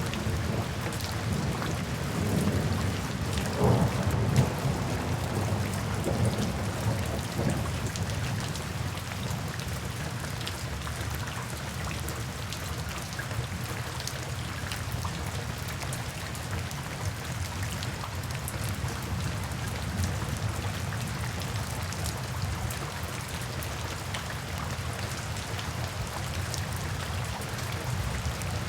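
Steady rain falling, with a low rumble of thunder that swells about three seconds in and dies away by about eight seconds.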